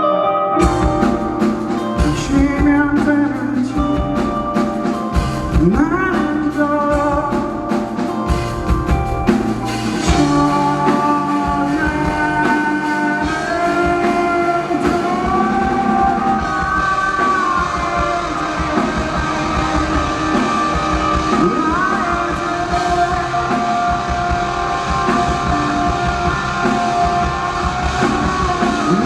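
Rock band playing live: drum kit, bass and electric guitars crash in together about half a second in after a quieter passage, then keep playing at full loudness with sliding, bending guitar lines.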